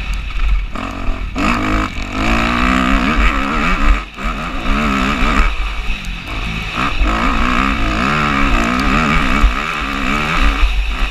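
Motocross bike engine revving hard, its pitch climbing and falling again and again as the throttle is worked, with a brief drop-off about four seconds in, over a steady low rumble.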